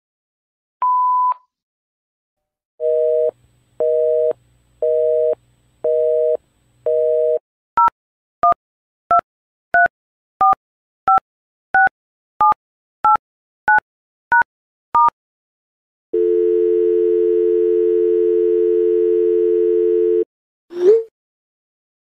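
Telephone line sounds in sequence: a single answering-machine beep, then a busy signal of five half-second beeps, then about a dozen touch-tone (DTMF) key tones as a number is dialed, then a steady dial tone for about four seconds. A short swooping alert sound comes near the end.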